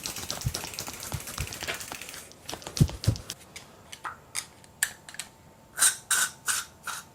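PB Blaster penetrating oil being sprayed in short bursts into a road bike's sticking shifter: a series of short, sharp hisses and clicks, about a dozen over the last five seconds. The shifter's internal click is not resetting, and it is being flooded with penetrant to free it.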